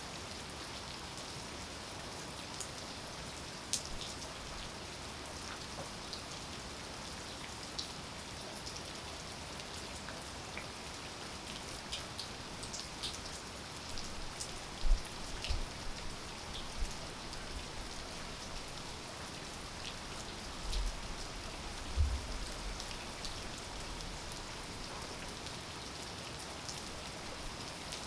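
Steady rain falling, with many individual drops ticking sharply on hard surfaces and a few dull low thumps near the middle.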